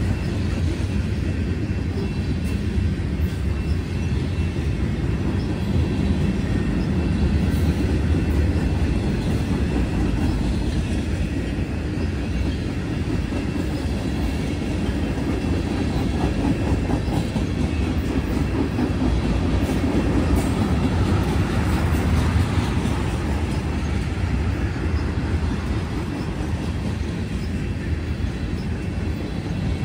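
CSX manifest freight train's cars rolling past: a steady rumble of steel wheels on rail.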